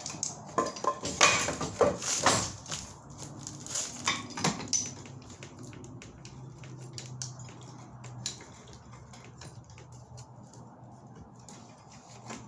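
Black iron gas pipe fittings and metal tools clinking and knocking as they are handled: a cluster of sharp clanks in the first few seconds, then occasional light taps over a faint low hum.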